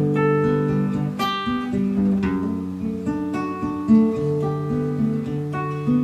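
Acoustic guitar playing an instrumental passage, plucked and strummed notes and chords changing about every half second.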